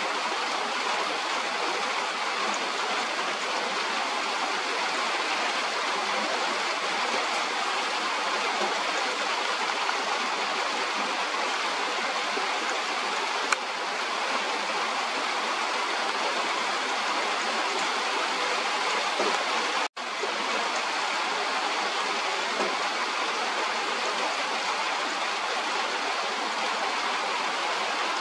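Steady hiss of rain falling, with one faint click about halfway and a split-second dropout about twenty seconds in.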